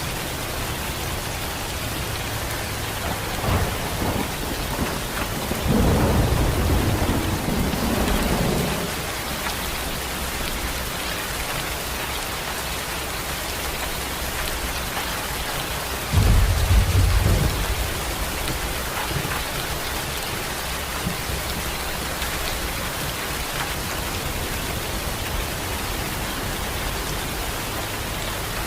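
Steady rain falling and pattering on surfaces. Deep low rumbles swell up about six seconds in, lasting a few seconds, and again around sixteen seconds in.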